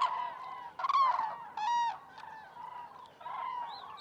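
A flock of common cranes calling: a series of separate, overlapping trumpeting calls, the loudest about one second in and another just before two seconds.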